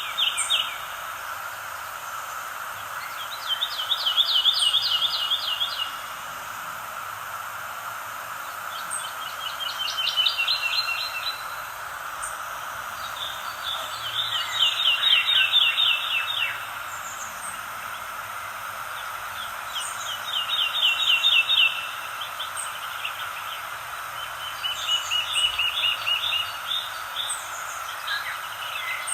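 A songbird repeating a rapid trill of about two seconds, roughly every five seconds, over a steady background hiss, with faint short high chirps from other birds.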